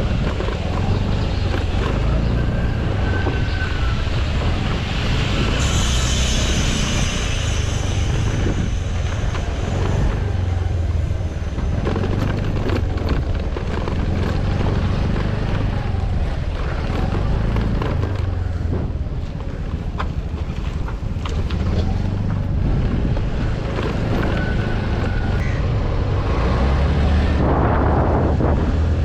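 A vehicle's engine running steadily while driving, with wind buffeting the microphone and frequent knocks and rattles.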